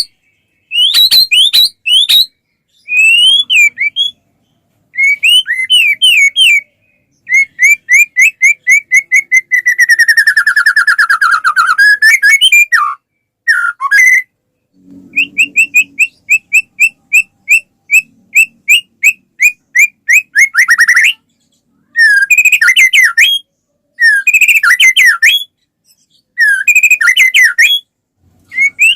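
White-rumped shama singing continuously in full song. It gives loud whistled phrases with short pauses between them: rapid trills, a long run of notes falling in pitch, and series of quick repeated notes.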